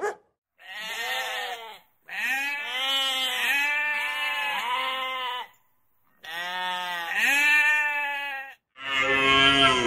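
Bleating livestock: a series of long, quavering bleats with short pauses between them.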